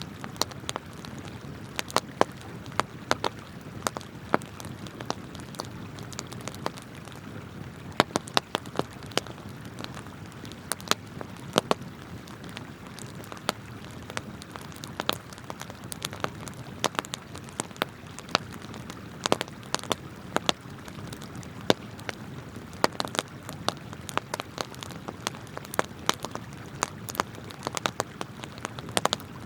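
Wood campfire crackling, with irregular sharp pops and snaps, over the steady rush of flowing river water.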